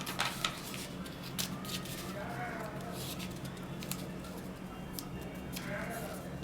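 Sheet of origami paper being handled and creased by hand: scattered short rustles and crisp clicks of folding paper, most of them in the first couple of seconds, over a steady low hum.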